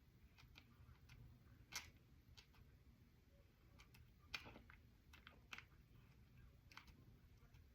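Faint, irregular crunches and clicks of a mouthful of edible clay pot and chalk being chewed slowly, a slightly louder crunch about two seconds in and another about four and a half seconds in.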